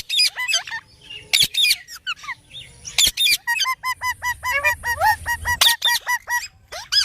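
Indian ringneck parrot calling: sharp, high squawks and chirps, with a rapid run of short repeated chirps, about four a second, through the middle.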